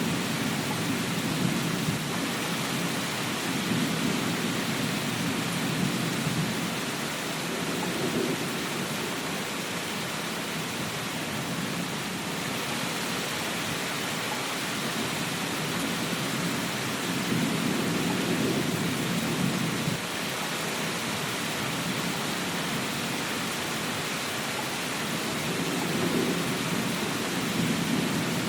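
Steady, even rainfall, with low rumbles that swell and fade several times, the strongest about two-thirds of the way in.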